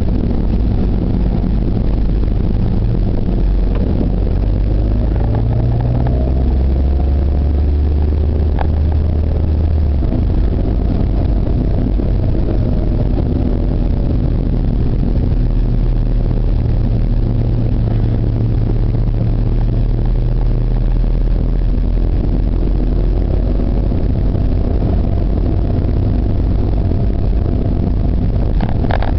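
Car engine and road noise heard from inside the cabin while driving slowly through town streets. The engine note climbs about five seconds in and drops back about ten seconds in, then hums steadily.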